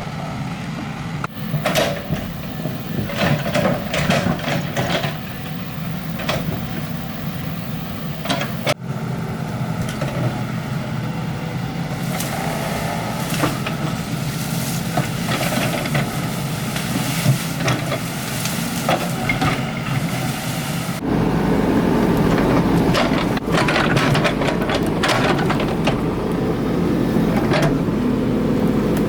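Excavator diesel engine running steadily, with repeated knocks and scrapes from the digging. The sound changes abruptly a few times and gets louder and heavier about two-thirds of the way in.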